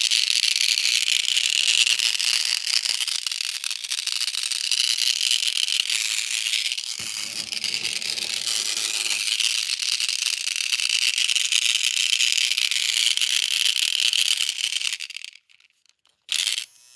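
Motorised Thomas toy train's gearbox running with a noisy, steady rattle from a faulty gear cog, which the owner thinks is the cause. It stops about fifteen seconds in, then runs again briefly about a second later.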